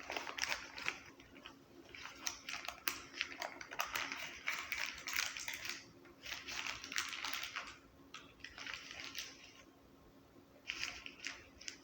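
Paper food packaging rustling and crinkling as it is handled, in bursts of a second or two with short pauses between, then a last short burst near the end.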